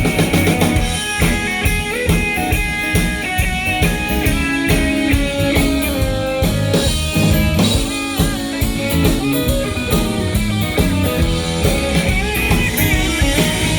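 Live band playing an instrumental break, with electric guitar lines over a steady drum kit and bass.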